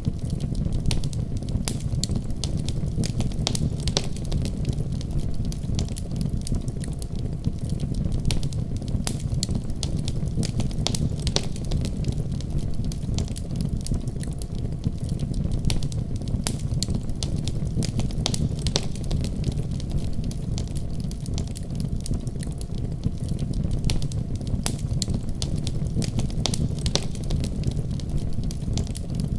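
Wood fire burning, a steady low rumble of flames with frequent irregular crackles and pops.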